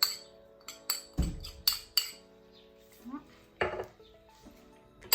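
Utensil clinking and knocking against a bowl while garlic is added to a soy sauce marinade: about six sharp, irregular clinks, one with a duller knock about a second in, over steady background music.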